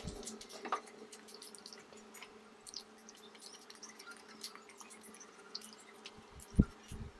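Quiet close-miked eating sounds: faint wet clicks and smacks of chewing spicy chicken, over a steady low hum, with a soft thump near the end.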